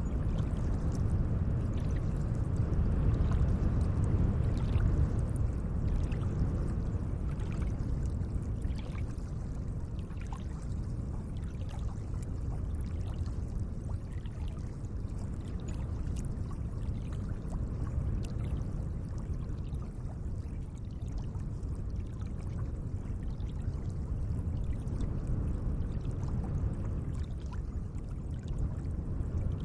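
Gentle lake water moving and splashing: a steady wash with many small splashes and drips throughout.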